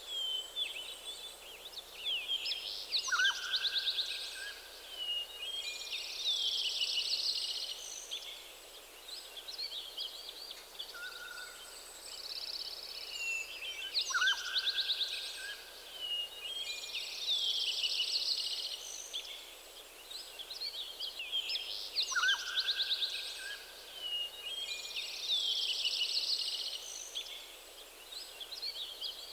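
Several songbirds singing together in a forest, mixing quick trills, chirps and clear whistled notes over a faint steady hiss. Similar phrases come back every ten seconds or so.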